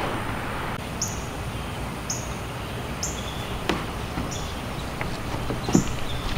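A bird repeating a short, high chirp about once a second over a steady outdoor hiss, with a couple of soft knocks about two thirds of the way in and again near the end.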